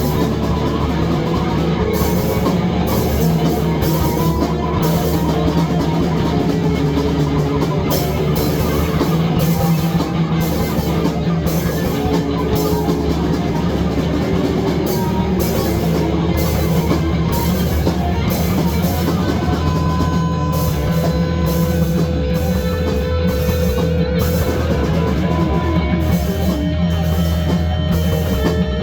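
Loud rock music with drum kit and distorted electric guitar.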